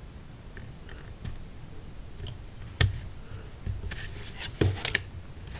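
Hobby knife slicing through the small uncut tabs that hold laser-cut wood wall pieces to their carrier sheet. Light scratchy cutting strokes, with sharp clicks about three seconds in and twice near the end as the blade breaks through.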